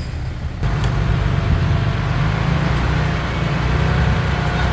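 Heavy diesel engine of earthmoving machinery running, a low steady rumble that gets louder about half a second in.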